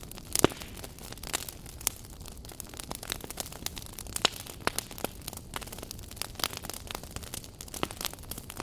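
Wood fire burning in a fireplace, crackling with sharp, irregular pops over a steady low hiss; the loudest pop comes about half a second in.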